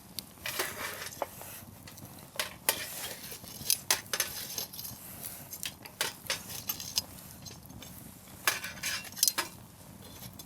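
Wood campfire crackling: burning firewood giving irregular pops and snaps, some sharp and loud, over a soft steady hiss.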